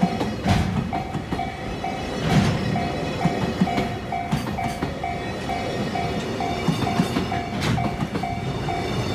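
Freight train's container wagons rolling past a level crossing, wheels clacking over the rail joints with a few sharp knocks, under the crossing's warning bell ringing about twice a second. Strong wind buffets the microphone.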